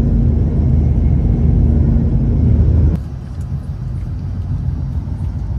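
Hokuriku Shinkansen train running at speed, heard from inside the passenger cabin: a loud low rumble with a steady hum, which drops abruptly in level about three seconds in and carries on more quietly.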